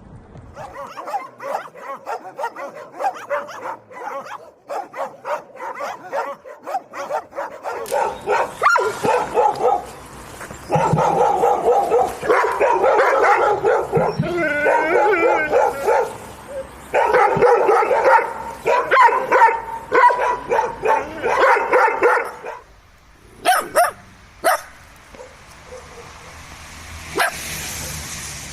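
Dogs barking in quick repeated runs, densest and loudest in the middle, then a short pause and a few last barks.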